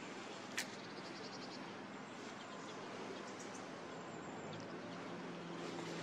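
Faint high bird calls: a quick run of short high notes about a second in and a few brief chirps midway, over a steady low hum. A single sharp click about half a second in is the loudest sound.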